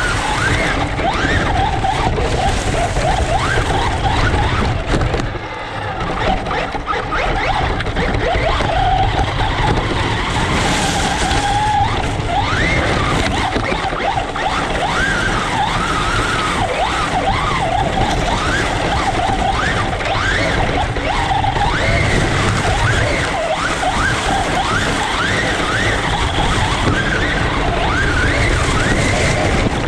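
Radio-controlled truck running flat out, its motor whining up in pitch again and again as it accelerates, over a steady rumble.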